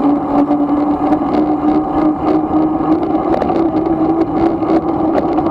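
Razor MX500 electric dirt bike running at speed, its motor and chain drive giving a steady whine that wavers slightly in pitch, with rough road noise and scattered small clicks.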